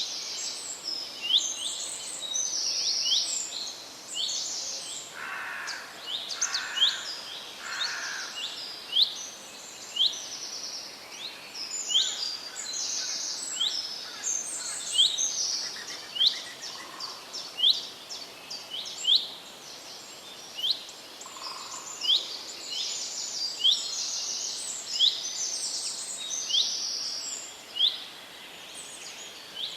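Several songbirds singing. One repeats a short sharp note about once a second, while others add quick buzzy trills between its notes.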